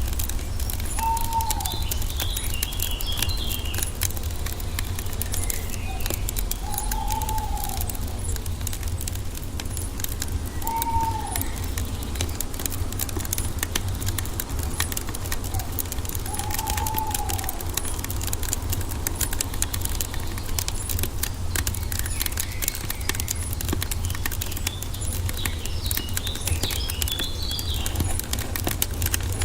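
Wood fire crackling steadily over a low rumble, with birds in the background: a short call that rises and falls, heard four times in the first half, and bursts of high chirping early on and again near the end.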